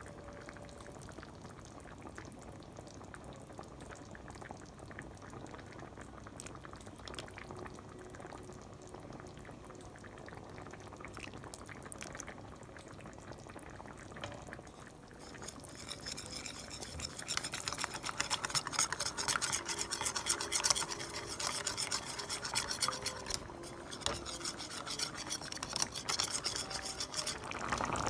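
Cornflour being whisked into hot sauce in a small container, a utensil scraping and clicking against its sides. About halfway through the stirring gets louder and busier.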